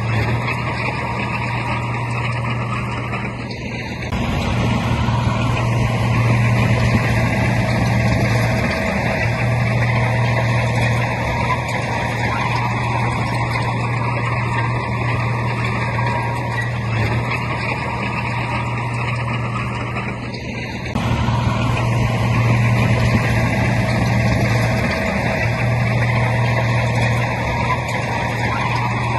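Heavy diesel earthmoving engine running steadily under load, its deep engine note swelling louder about four seconds in and again about twenty-one seconds in as the machine works harder.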